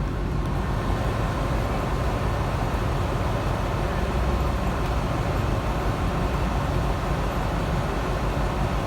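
Steady rumble and running noise of a passenger train in motion, heard from inside a carriage.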